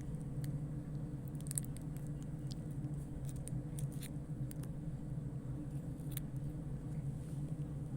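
Scattered small clicks and smacks of someone eating candy, over a steady low hum.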